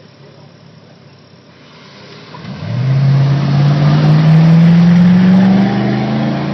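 A car engine accelerating hard from a launch. It comes in loud about two and a half seconds in, its pitch climbing slowly and steadily, and it eases slightly near the end.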